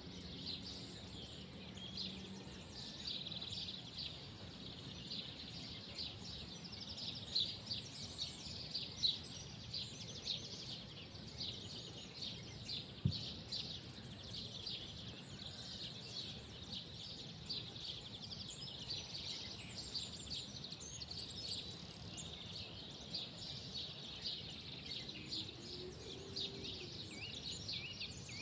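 Small birds chirping and twittering continuously, many short overlapping calls, over a faint steady background noise. A single sharp knock stands out about halfway through.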